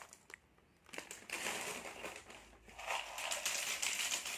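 Plastic snack packet crinkling and crackling as it is handled and opened, in two stretches after a quiet first second.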